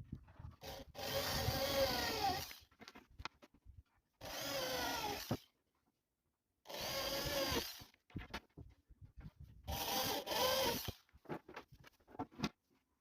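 Power drill running in four short bursts about a second or so each, its whine bending and dropping in pitch as each run ends, with small clicks and knocks of handling in between.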